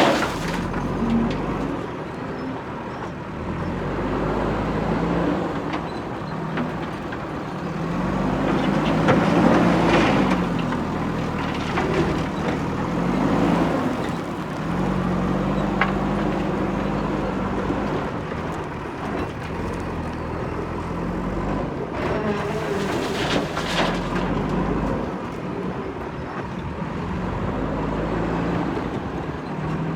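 Diesel engine of a JCB backhoe loader running and revving up and down as it works, with a louder surge around a third of the way in.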